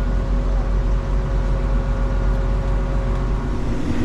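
Combine harvester running, heard from inside its cab: a steady low engine rumble with a constant machine hum over it. About three and a half seconds in, the steady tones drop out and the sound changes.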